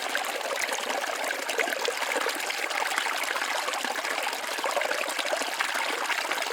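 Forest waterfall splashing steadily: a constant rush of falling water full of fine spatters, with little deep rumble.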